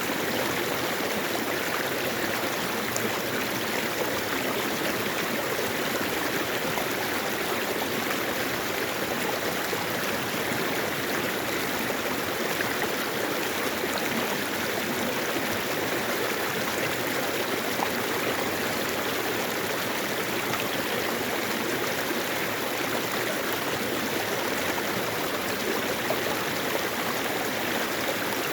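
Mountain stream water flowing over rocks: a steady, unbroken rushing and babbling.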